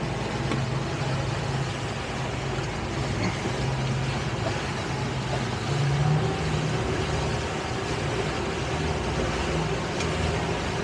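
Boat engine running steadily under way, a low even drone with wind and water noise that swells slightly about six seconds in.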